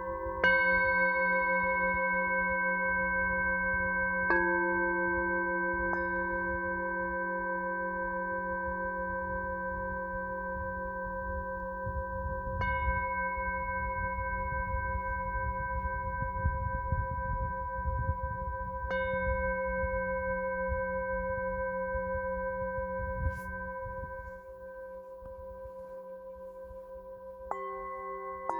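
Singing bowls struck one after another, about five strikes, each ringing on for many seconds with a slow wavering pulse in the tone. A low rumble runs under the ringing through the middle.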